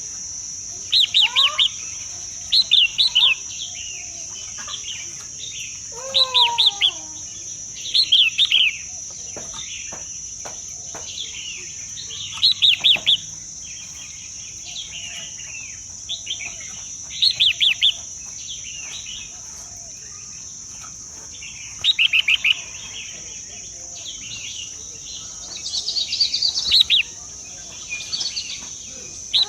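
A bird calling in short bursts of four or five rapid chirps, repeated every few seconds, over a steady high insect drone.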